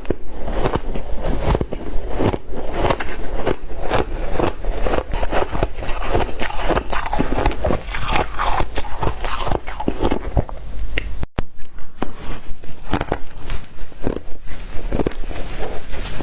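Someone biting and chewing white ice: a dense, continuous run of sharp crunches and crackles, broken by a brief gap about eleven seconds in.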